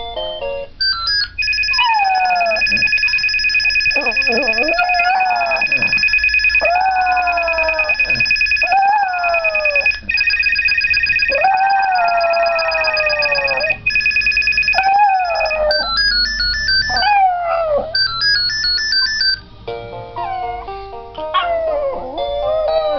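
Dog howling along with a phone ringtone: a series of howls, each falling in pitch, over a steady high electronic tone that gives way near the end to a stepped ringtone melody.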